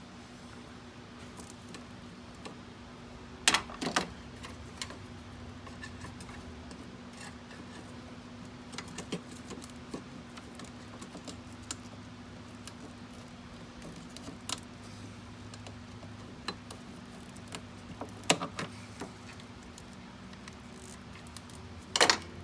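Metal tools and parts clinking and clattering as they are handled, in scattered clicks with a few louder clusters: about three and a half seconds in, around eighteen seconds in, and near the end. A steady low hum runs underneath.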